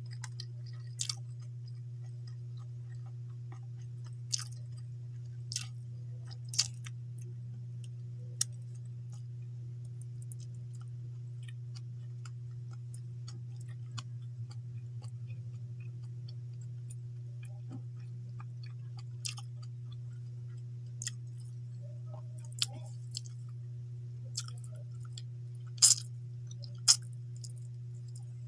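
A person chewing food close to the microphone: scattered sharp mouth clicks and smacks, with the loudest two near the end, over a steady low hum.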